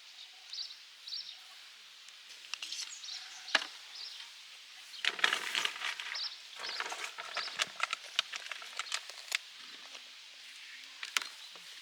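A run of short clicks and knocks, busiest about five to seven seconds in, with a few brief high chirps in the first second or so.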